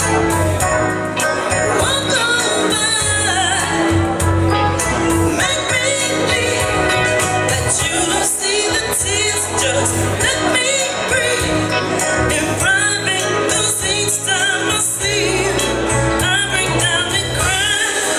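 Live band music: a wavering lead melody over a steady bass line and percussion.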